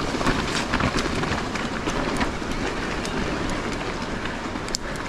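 Mountain bike rolling over a rough, rocky trail: tyres crunching on loose stones and the bike rattling with many small clicks, with one sharper click near the end.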